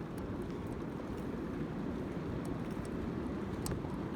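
Steady wind rumble on the microphone while riding a bicycle, with a few faint, scattered clicks.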